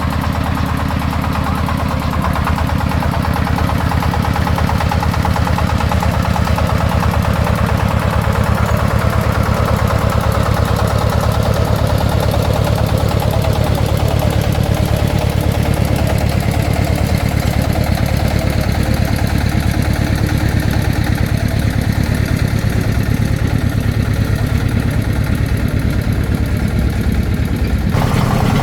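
Diesel engine of a công nông farm truck running steadily at idle, with an even firing beat.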